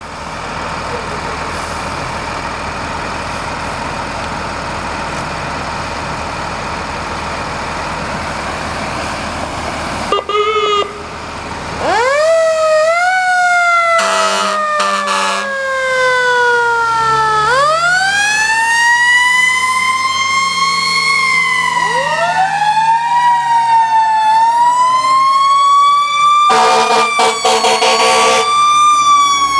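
Fire trucks with their engines running. About ten seconds in, a short siren yelp, then sirens wailing up and down, with two overlapping from about halfway. Two horn blasts cut in, one a couple of seconds after the wail begins and one near the end.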